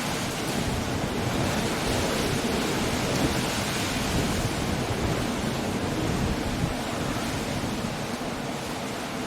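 Coastal storm: surf breaking on the shore under wind and rain, a dense steady roar that swells a little in the middle and eases toward the end.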